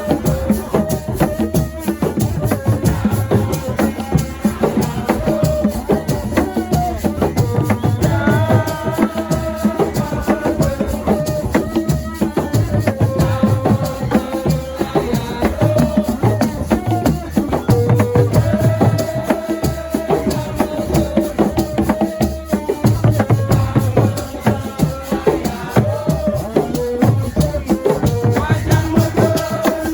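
Senegalese assiko music: voices singing over dense hand percussion and a rattling shaker, with a steady, unbroken rhythm and a deep drum stroke recurring every couple of seconds.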